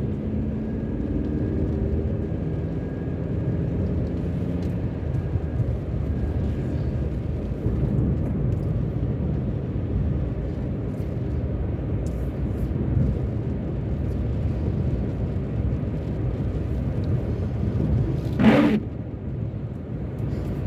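A car driving along a road: steady low rumble of engine and tyre noise. There is one short, louder noise about two seconds before the end.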